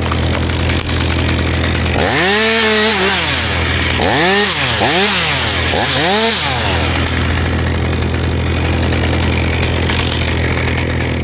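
Chainsaw revving: one long rev, then three quick blips in a row, each rising and falling in pitch, over a steady engine drone.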